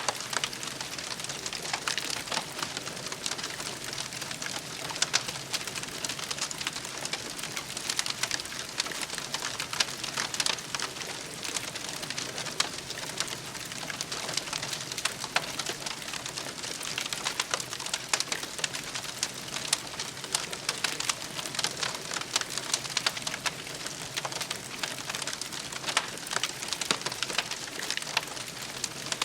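Campfire crackling: a dense, continuous run of small pops and snaps over a steady hiss.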